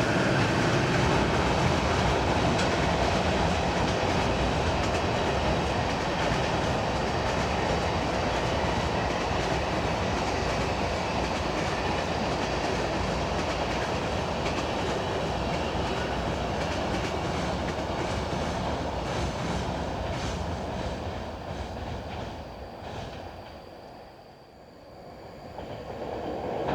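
Freight train passing on the main line: a steady rumble of wheels and cars on the rails that fades away about twenty seconds in.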